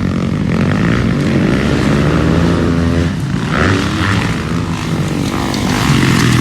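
Motocross dirt bike engines running hard, their pitch rising and falling as the riders throttle and shift through the track.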